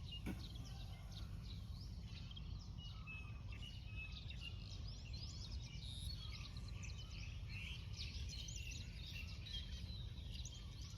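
Many birds chirping together in quick, short calls, over a steady low rumble.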